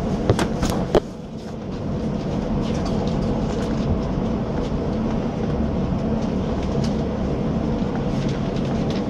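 Steady hum and rumble of a SkyTrain car standing at a station platform, with a few sharp clicks in the first second.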